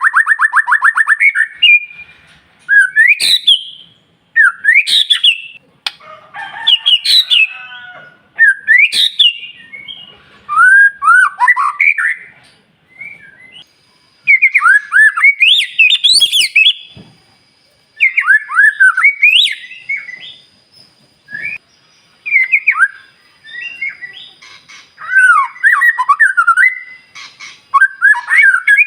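White-rumped shama (murai batu) singing: loud whistled phrases of rising and falling notes, separated by short pauses. A fast rattling trill ends about a second and a half in.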